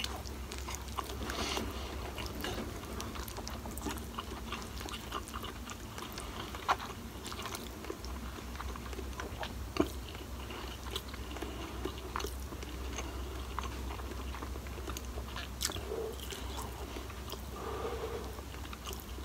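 Close-up eating of instant noodles with rice and fried tofu: soft, irregular chewing and mouth clicks with a few sharper clicks, over a steady low hum.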